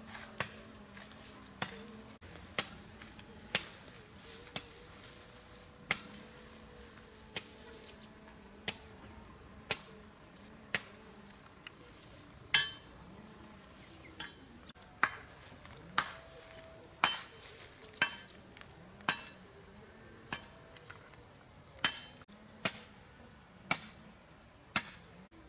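Firewood being chopped with a blade: sharp chops about once a second, louder in the second half. A steady high-pitched insect drone runs underneath.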